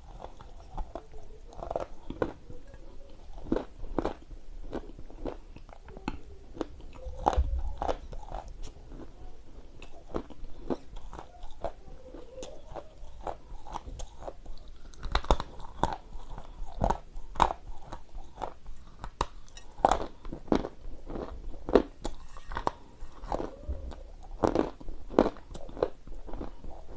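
Close-miked biting and chewing of chunks of dry Ural edible clay: irregular crisp crunches, several a second at times, between softer chewing.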